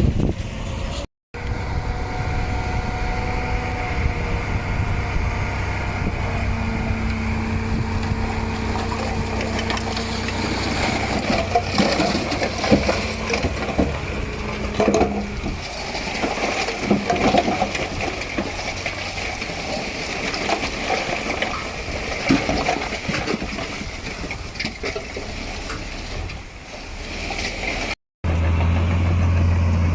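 Heavy diesel earthmoving machinery running steadily, with irregular crunching and clattering of soil and rock through the middle. The sound cuts out briefly about a second in and again near the end.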